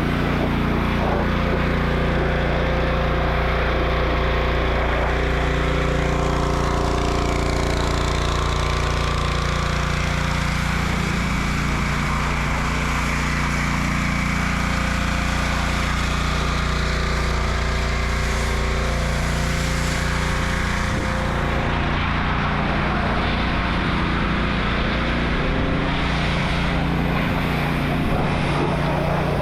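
An engine running steadily, its pitch wavering slightly.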